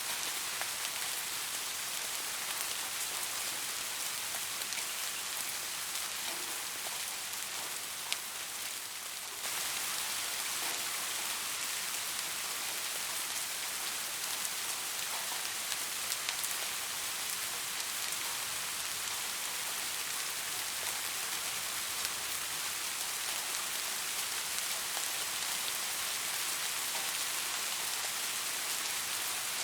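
Steady rain falling: a dense, even hiss flecked with the ticks of individual drops. The level sags slightly and then steps back up abruptly about nine and a half seconds in.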